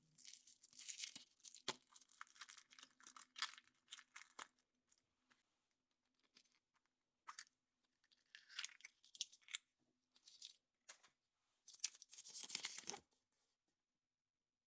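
Crinkly wrapping of a chocolate surprise egg being torn open and crumpled by hand, in a long crackling stretch at first, then several shorter bursts with pauses between them.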